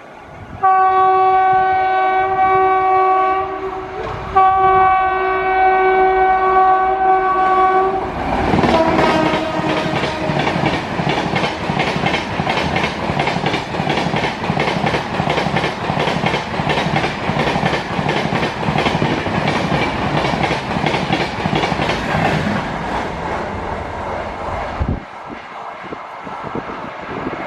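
WAP-7 electric locomotive sounding two long horn blasts, then the train passing at speed with a rhythmic clatter of wheels over rail joints. The horn note drops in pitch as the locomotive goes by. The clatter falls away sharply near the end.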